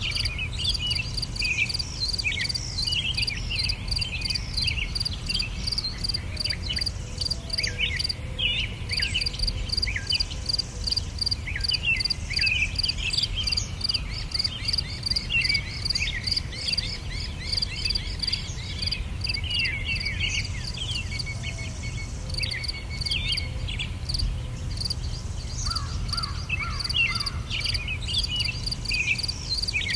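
Nature ambience: many birds chirping and whistling in short quick notes over a steady high insect chirp that pulses about three times a second, with a constant low rumble underneath. A lower-pitched call joins near the end.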